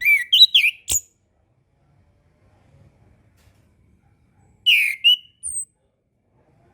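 Chestnut-capped thrush (anis kembang) singing two short phrases of quick whistled, gliding notes, the first right at the start and ending in a sharp click, the second about five seconds in, ending in a thin high note.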